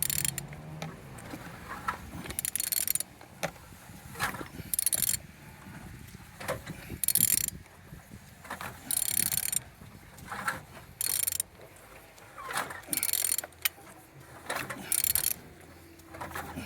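Ratchet wrench turning the crankshaft of a removed 368DT engine over by hand, a burst of ratchet clicking roughly every two seconds between strokes. The engine is being turned to check that it rotates freely and holds compression.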